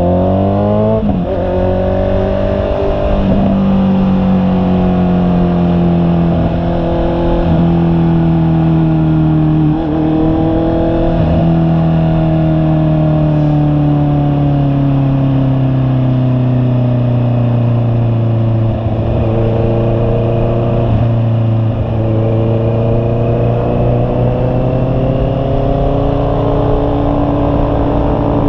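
Honda CB650R's inline-four engine under way: it revs up and drops in pitch with several upshifts in the first dozen seconds, then engine speed eases down steadily for several seconds and rises again near the end.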